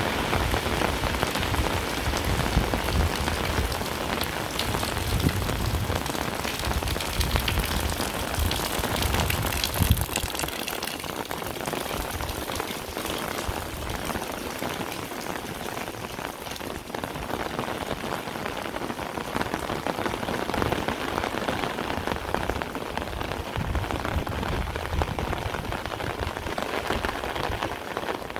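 Heavy rain falling steadily, with a low rumble under it that eases off about ten seconds in.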